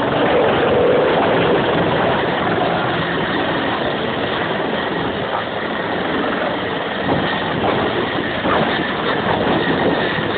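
Helicopter running, a loud steady engine and rotor noise with a faint whine on top.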